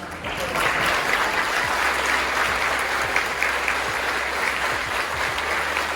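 A large audience applauding, the clapping breaking out at once and holding steady.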